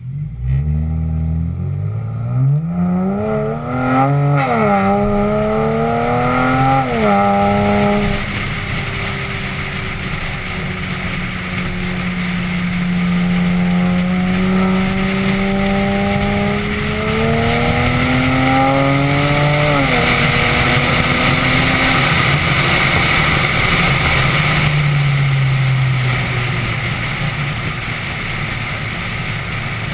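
BMW 335i inline-six running through an aftermarket 3.5-inch stainless steel exhaust, heard from outside the moving car. It pulls hard through the gears, with the note dropping at upshifts about four and seven seconds in, then cruises and climbs again before easing off after about twenty seconds. Wind and road noise build in the second half.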